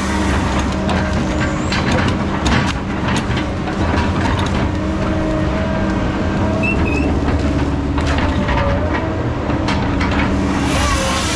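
Diesel engine of heavy logging equipment running steadily, with a whine that shifts in pitch and scattered sharp knocks and cracks.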